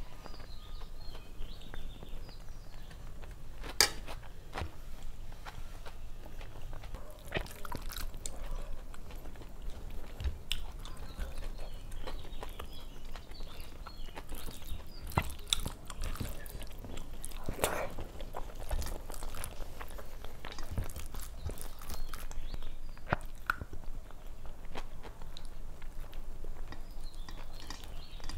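Close-miked chewing and mouth sounds of a person eating rice and fried fish by hand, with scattered sharp clicks and smacks.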